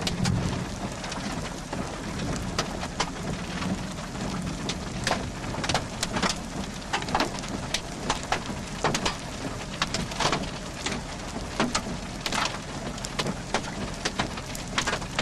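Heavy thunderstorm rain: a steady hiss of rainfall with many large drops striking hard at irregular moments.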